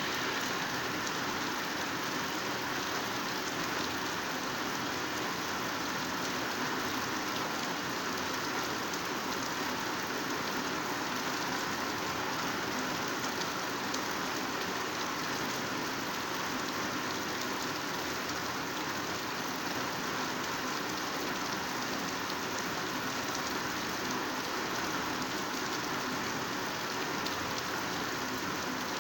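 Heavy rain pouring steadily onto foliage, a dense even hiss of drops with no let-up.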